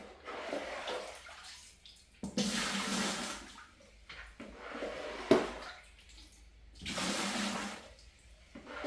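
Water splashing in repeated swooshes, one every two seconds or so, each lasting a second or two, with a sharp knock about five seconds in.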